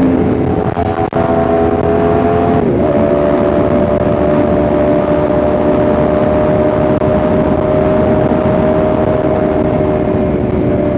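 Yamaha R1M's crossplane inline-four engine running at a steady cruise. About three seconds in, the engine note steps down, as on a gear change, then holds steady.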